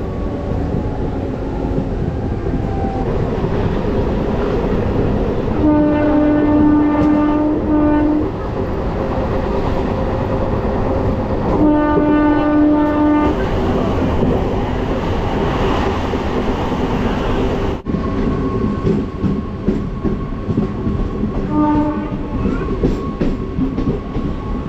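MEMU electric train running along the track, heard from aboard, with a train horn sounding three times: a long blast about six seconds in, another about twelve seconds in, and a short toot near the end.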